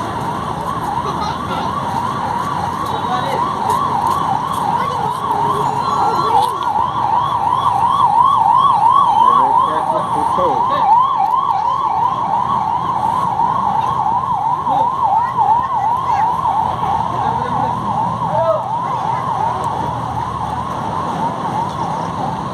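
Emergency vehicle siren in a rapid yelp, its pitch sweeping up and down over and over, growing louder toward the middle and then fading, over traffic noise.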